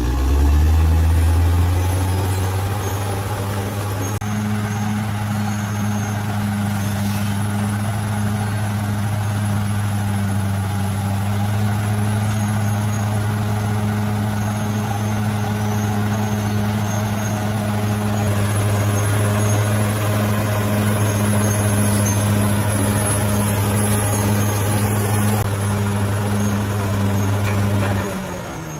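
Bulldozer's diesel engine running hard and steady. Its note rises at the start, holds level, and drops away near the end.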